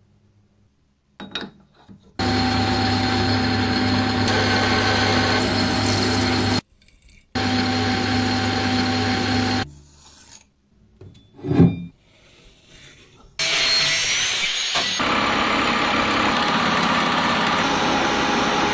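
Electric power tool running in three long bursts, abrading the surface of a rusty metal part, with a steady motor hum under the rasping. A single sharp knock comes between the second and third bursts.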